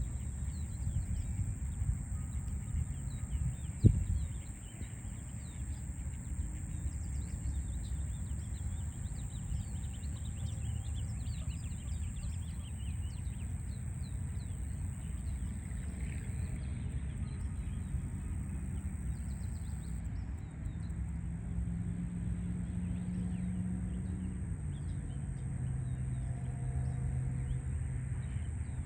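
Small birds chirping over the steady low rumble of city traffic, with one sharp knock about four seconds in and a low engine drone in the second half.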